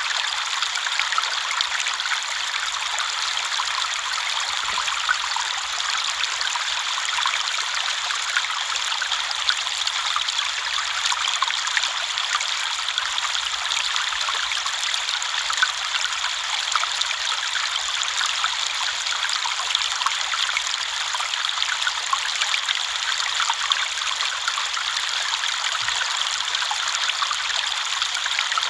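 River water flowing over stones, a steady bright rushing and splashing with many small droplets and little low rumble.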